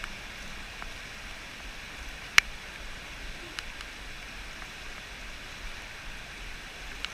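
Steady rush of river water, with one sharp click about two and a half seconds in and a few fainter ticks.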